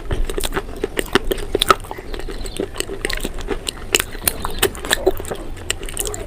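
A person biting and chewing crunchy food close to the microphone: quick, irregular crunches, several a second.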